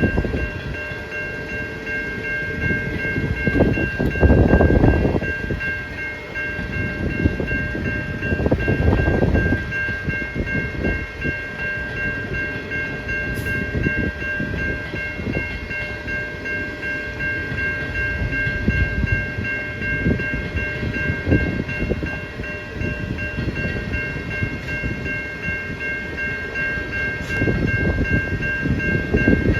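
Level crossing electronic bells (Safetran Type 3) ringing steadily with a high, even tone, over the low rumble of a train passing, which swells about four seconds in, again near nine seconds, and near the end.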